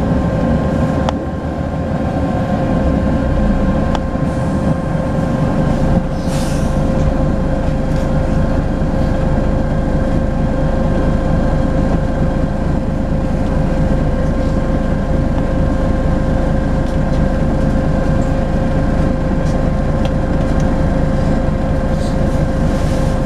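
Volvo B10BLE bus's diesel engine running steadily under way, with a steady high turbocharger whistle over the low rumble and small rattles. A brief hiss about six seconds in.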